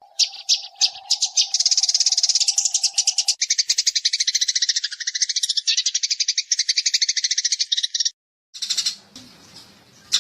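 Eurasian tree sparrows chattering: a fast, continuous run of high chirps, about ten a second, which breaks off near the end and then resumes more sparsely. A faint steady hum sits under the first few seconds.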